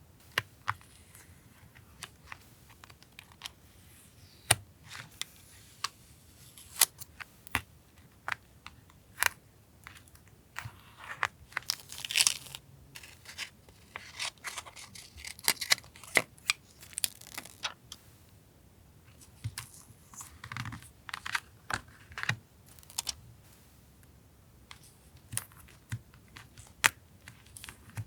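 Paper being handled for a collage: tearing and crinkling paper, with the longest tear about twelve seconds in, between many sharp clicks and taps.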